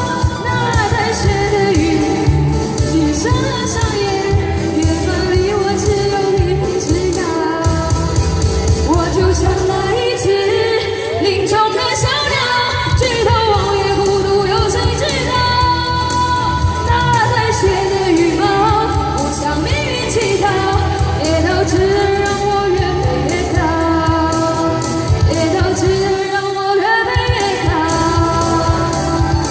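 Chinese pop song performed live: a singer's voice over a karaoke backing track with a steady beat.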